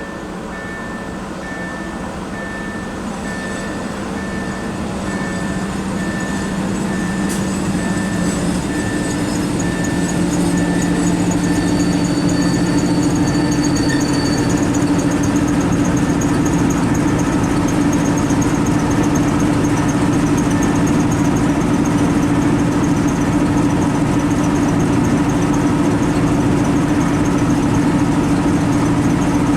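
Diesel train engine growing louder over the first ten seconds as it draws near, then running steadily with a low, even hum.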